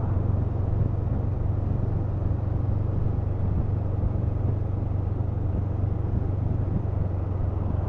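Honda CMX500 Rebel's parallel-twin engine running at a steady cruise, an even low drone under a constant rush of road noise.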